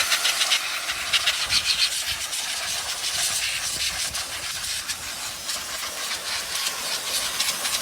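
Steady hiss with a fine crackle running through it.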